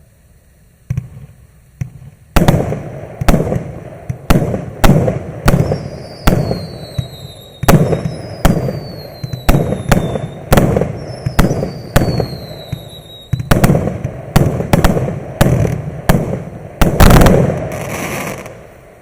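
100-shot firework cake (MAXSEM "WIND" MC134) firing a steady run of sharp reports, about one and a half a second, with falling whistles among them. It ends in a dense, loud volley shortly before the end, which then dies away.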